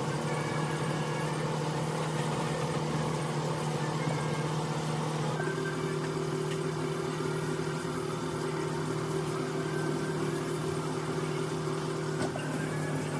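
Car engine idling steadily, with a second, higher steady tone joining about five seconds in.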